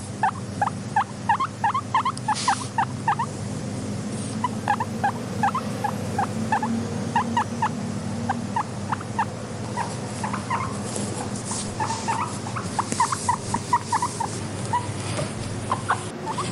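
Guinea pigs squeaking: short, quick calls strung together in runs of several a second, over a steady low drone.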